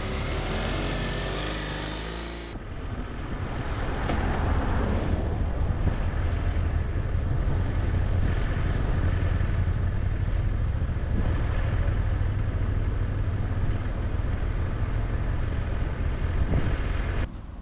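Motorcycle engine running while riding. The sound changes abruptly about two and a half seconds in to a louder, steady low rumble, and it drops near the end.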